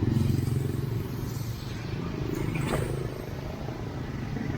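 Heavy road traffic in the rain: vehicle engines running, with a low rumble loudest at the start and a brief higher sound a little past halfway.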